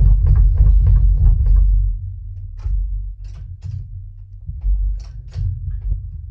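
Heavy low rumble under a quick run of rattling knocks, then scattered separate clicks and clunks of metal parts and tools being handled during engine removal.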